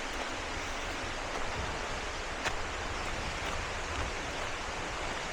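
Steady rushing of falling and flowing river water, with a single light click about two and a half seconds in.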